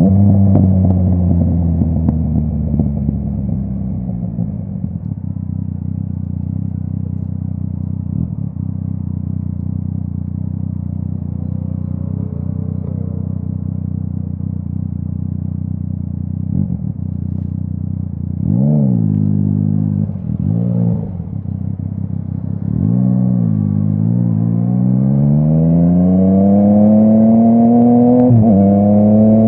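Yamaha MT-09 three-cylinder engine through a full Akrapovic exhaust. The revs fall and settle into a steady run, then come two quick throttle blips about two-thirds of the way in. After that the bike pulls away with steadily rising revs and a gear change near the end.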